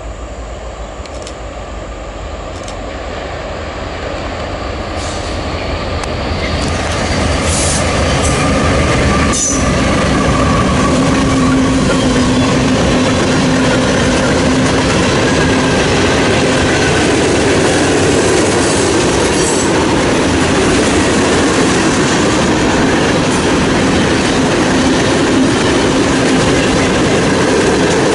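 Norfolk Southern freight train passing close by. A diesel locomotive approaches and goes past, growing louder over the first eight seconds or so. Then a long string of covered hopper cars rolls by with steady wheel-on-rail noise and clickety-clack over the joints, with one sharp knock about nine seconds in.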